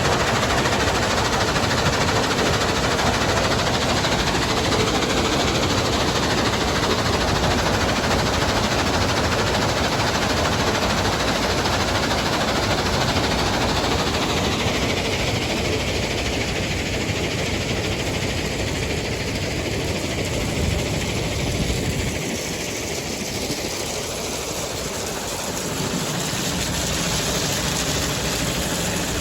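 Mobile rock-crushing and screening plant running: heavy diesel machinery with a dense, rapid clatter of rock. The low rumble drops away for a few seconds near the end, then returns.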